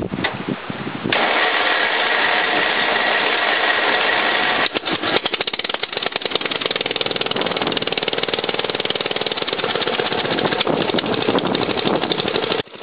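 Craftsman lawn tractor's 12.5 hp engine being started: the starter cranks for a few seconds, then the engine catches about five seconds in and settles into a fast, even running pulse.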